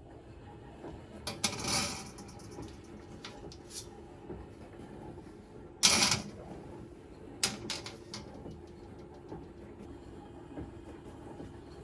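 Household items being handled and set down: scattered clicks and light knocks, a short rustling scrape near two seconds, and a sharper, louder knock about six seconds in, over a faint steady hum.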